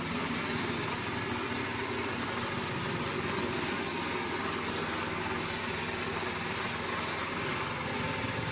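Engine-driven portable wood chipper running steadily at a constant pitch, with no separate knocks or cuts standing out.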